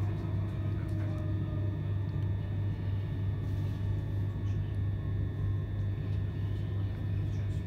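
Steady running rumble of a c2c electric passenger train at speed, heard inside the carriage: a low, even hum with wheel and track noise.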